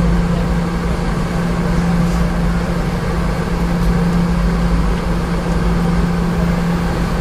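Cabin noise inside a Boeing 717-200 airliner: the steady drone of its engines and air systems, with a constant low hum.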